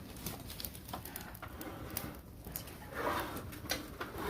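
Oak-log campfire crackling, with irregular sharp pops.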